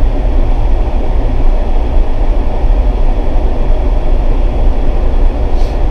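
Jeep driving downhill: a steady, loud low rumble of engine and road noise.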